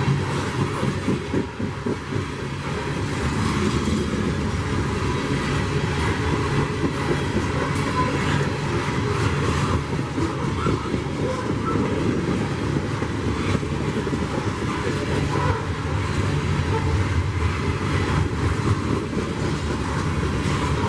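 Freight train rolling past, a steady loud rumble of cars with wheels running on the rails.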